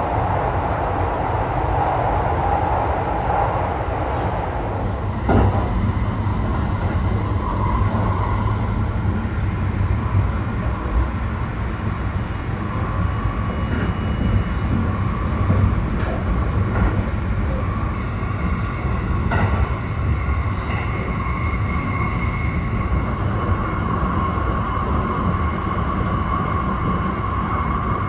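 Limited Express Thunderbird train running at speed, heard from inside the carriage: a steady low rumble of wheels on rail. There are two single knocks, about five and nineteen seconds in, and a humming tone that grows stronger in the second half.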